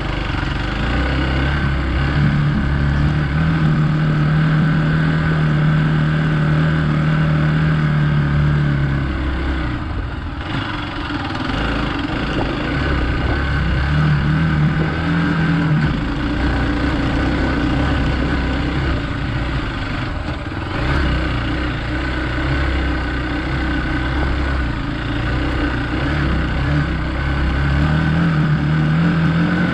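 Hero XPulse 200 motorcycle's single-cylinder engine running under way off-road, its note rising and falling with the throttle and easing off briefly a couple of times.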